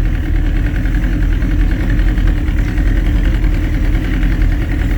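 Small motorboat's engine running steadily under way.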